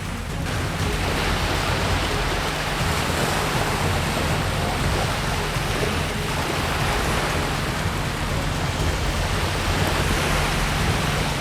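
High-speed military combat boat running at speed: a steady engine drone under a constant rush of water spray and wind.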